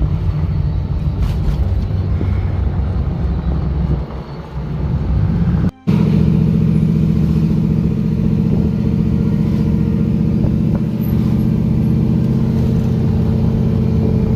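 LS V8-swapped Jeep TJ driving, engine and road noise heard from inside the vehicle. About six seconds in the sound cuts out for a moment, then the engine drone comes back steadier and more even.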